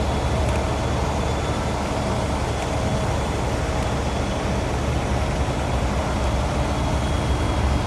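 Rotary snow plow train running steadily: a heavy, even low rumble with a constant rushing noise over it.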